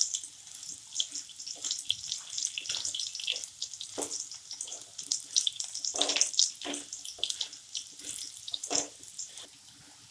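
Raw banana slices frying in hot oil in a non-stick kadhai, a steady dense crackling sizzle. A spatula stirs them, with a few louder scrapes against the pan.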